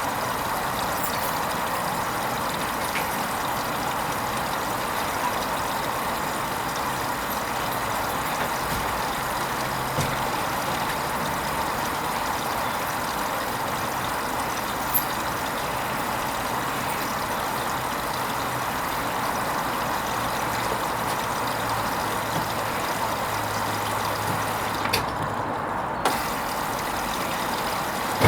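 Hoover Vision HVP16 washing machine running partway through its Silks 30 programme: a steady rushing of water and pump with a low hum underneath, and a few faint clicks.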